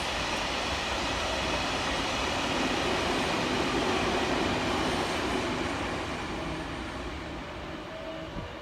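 JR West 207 series electric commuter train pulling into the station, its running and wheel noise on the rails loudest about four seconds in, then dying down as it slows to a stop.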